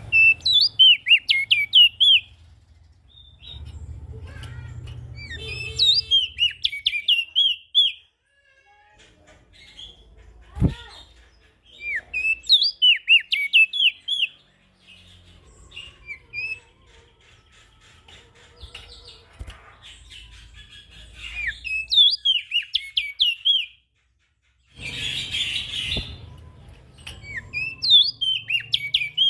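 A prenjak daun songbird sings its lively song over and over: about five bursts of rapid, high chirping notes, each about two seconds long, with pauses of a few seconds between them. A single dull thump comes about ten seconds in, and a short hiss near the end.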